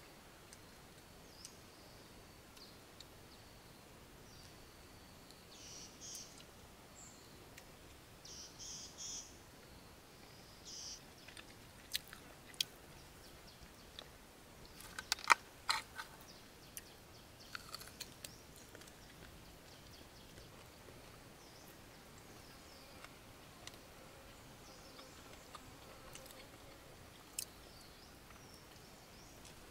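Someone biting and chewing crunchy food, in short bursts with scattered sharp clicks, the loudest cluster about halfway through, over a faint steady forest hiss.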